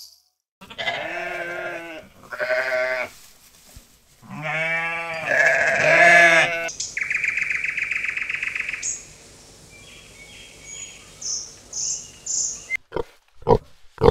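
Four loud, wavering bleats in the first seven seconds, the last two longer. A steady insect buzz and a few high chirps follow, and near the end a pig grunts several times in quick succession.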